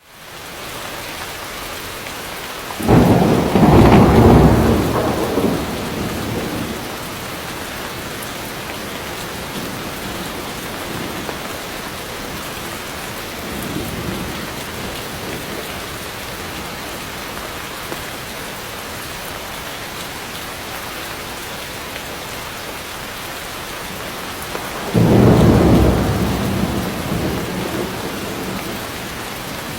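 Heavy rain falling steadily, with thunder rumbling twice, about three seconds in and again near the end, and a fainter rumble midway.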